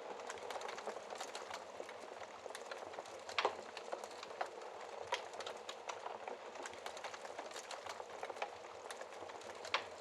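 Wood fire burning in a fireplace: a steady hiss of flames with irregular sharp crackles and pops from the burning logs, the loudest pop about three and a half seconds in and another just before the end.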